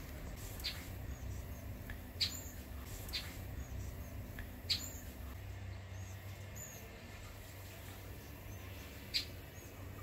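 Bird chirping: about five short, sharp, high-pitched calls spaced irregularly a second or more apart, with fainter short high notes in between.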